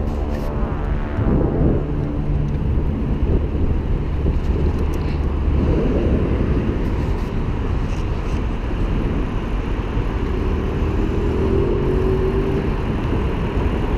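Steady wind and road rumble on an action camera carried on a moving mountain bike, with city traffic passing; a vehicle's engine drops in pitch as it goes by in the first second or two, and another engine tone rises near the end.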